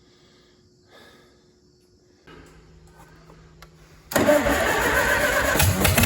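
Faint steady hum, then about four seconds in an engine starts up suddenly and runs loudly.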